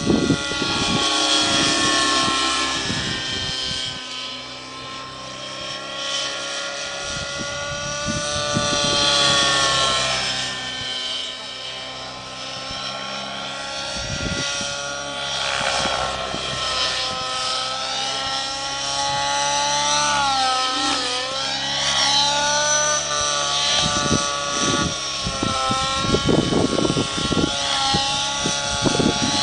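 Align T-Rex 700 nitro RC helicopter in flight: its two-stroke glow engine and rotor blades give a high whine whose pitch rises and falls as the helicopter is thrown through 3D manoeuvres. Low rumbles come and go near the start and near the end.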